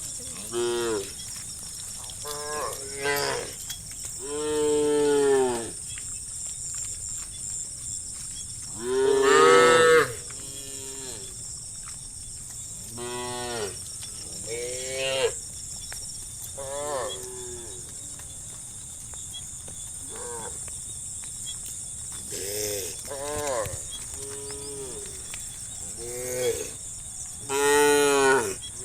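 Animal calls, over a dozen drawn-out calls one after another and varying in loudness, the loudest about a third of the way in and near the end, over a steady high-pitched hiss.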